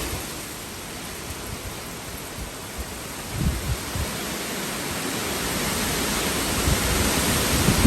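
Steady hiss of hurricane rain and wind, with low gusts buffeting the microphone about three and a half seconds in and again as it swells louder near the end.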